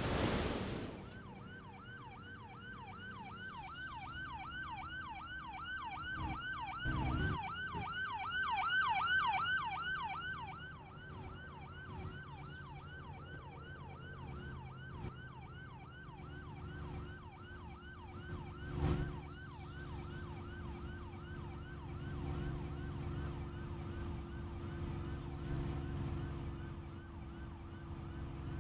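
Emergency vehicle siren in fast yelp mode, sweeping up and down about four times a second, strongest for the first ten seconds and then fainter. Two brief knocks are heard, about seven and nineteen seconds in.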